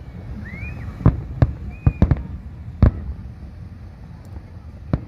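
Aerial fireworks shells bursting: a series of sharp bangs, several in quick succession between about one and three seconds in and one more near the end, over a steady low rumble of the display.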